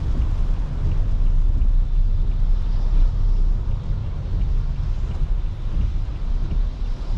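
A car driving in the rain, heard from inside: a steady low road rumble with a fainter hiss of rain and wet tyres over it.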